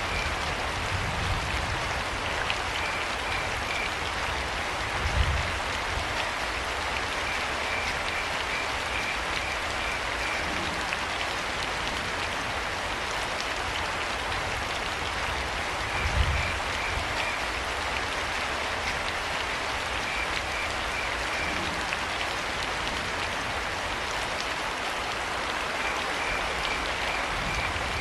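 Steady rain falling, with crickets chirping in short trills that recur every few seconds. Two low thumps stand out, about five seconds in and again around sixteen seconds.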